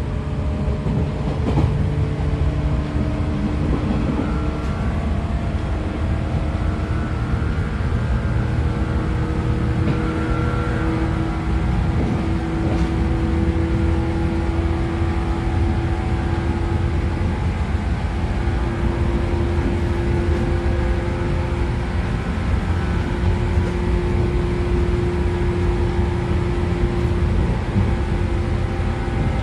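Interior running sound of a 113 series electric train motor car, heard from inside: whine from its MT54 DC series-wound traction motors and gears, rising slowly in pitch as speed builds, over a steady rumble of wheels on rail.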